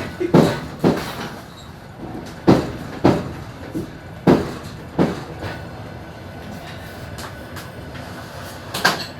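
Train wheels clicking over rail joints, heard aboard a suburban train: sharp knocks in pairs, three pairs about two seconds apart, then a stretch of steady rolling noise and another pair near the end.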